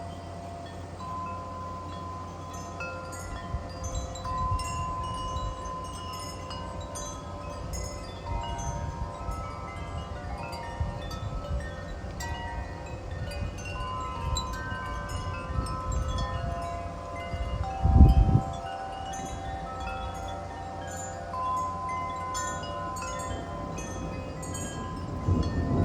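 Metal wind chimes ringing continuously, with several pitched tones struck again and again and overlapping as gusty storm wind drives them. Wind rumbles on the microphone throughout, with a short loud low blast about two-thirds of the way in.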